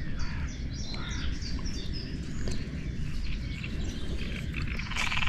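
Small birds chirping and twittering again and again over a low steady rumble; just before the end a frog starts croaking with a rasping buzz.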